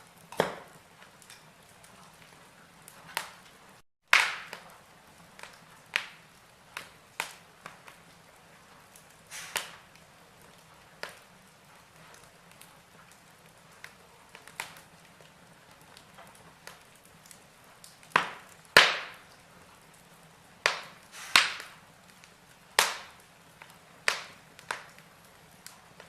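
Log fire in a fireplace crackling: irregular sharp pops and snaps, a few seconds apart, over a soft steady background, with a cluster of louder pops in the second half.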